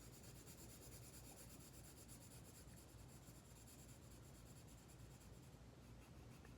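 Near silence with the faint, steady scratch of colouring on paper.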